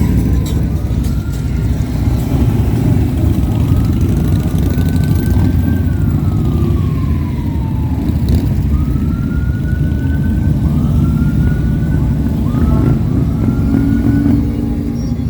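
A siren sounding in short rising and falling sweeps over a steady low rumble of motorcycle and vehicle engines running in a group ride.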